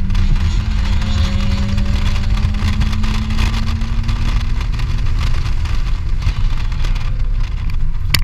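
2003 BMW 325i's straight-six engine under load at track speed, heard inside the cabin: the revs climb slowly for about five seconds and then hold steady, over tyre and wind noise. A sharp click comes right at the end.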